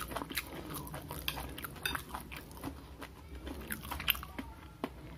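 Close-up chewing of food, with irregular small clicks and crunches and light clinks of a metal spoon and fork against a ceramic plate.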